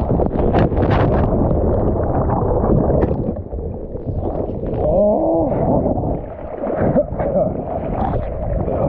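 Loud, muffled rushing of water and wind noise, steady throughout. About five seconds in, a short wavering pitched sound rises and falls over it.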